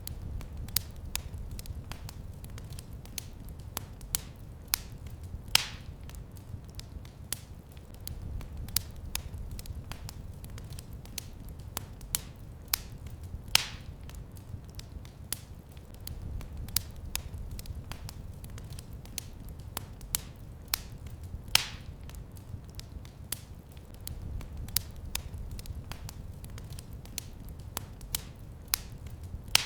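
Fire crackling in a fireplace: a steady low rumble under constant irregular small snaps, with a few louder pops standing out about every eight seconds.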